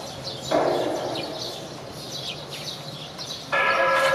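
Small birds chirping repeatedly in quick short calls. About half a second in, a brief harsh pitched blast sounds. Near the end, a loud steady pitched tone with overtones starts and holds.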